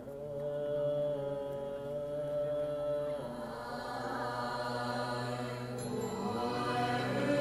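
Buddhist sutra chanting by a group of voices, in long held notes that shift in pitch about three seconds in.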